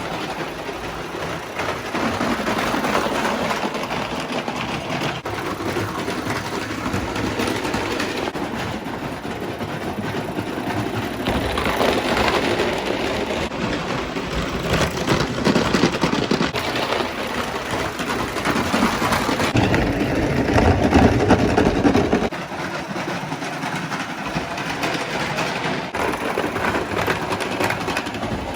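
Mamod Mk 3 live steam locomotive, a spirit-fired pot-boiler engine, running along 32 mm gauge track: continuous steam hiss and mechanical clatter that shifts in level, dropping suddenly about 22 seconds in.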